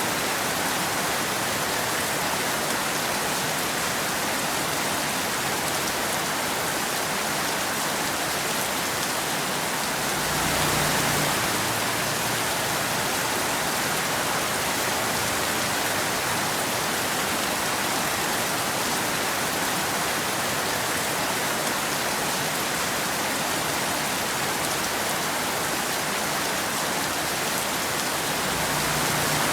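Steady rain falling, an even dense hiss, briefly louder and deeper about ten seconds in and again near the end.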